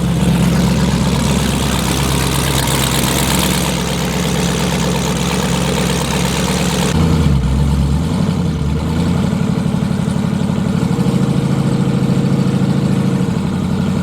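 Car engine idling steadily. A loud hiss over it cuts off suddenly about halfway through, leaving the engine running on its own with an even, pulsing idle.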